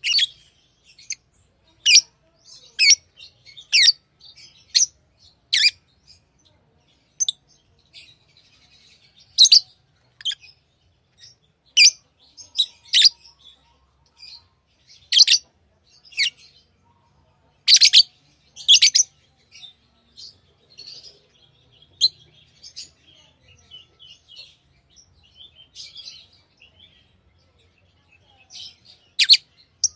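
Pet lovebirds chirping: short, high, sharp calls at irregular intervals, with quieter twittering in between, most of it about two-thirds of the way through.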